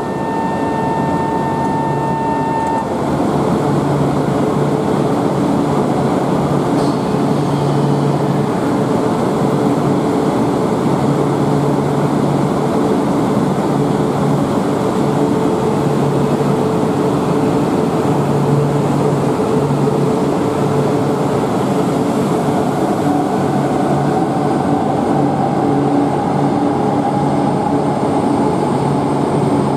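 E4 series 'Max' double-decker Shinkansen at a station platform: a steady rumble and motor hum, with a steady electronic beep for about the first three seconds and a whine rising in pitch over the last several seconds.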